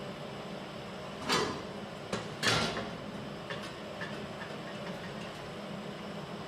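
Two sharp clunks about a second apart, then a few light clicks, over a steady background hum.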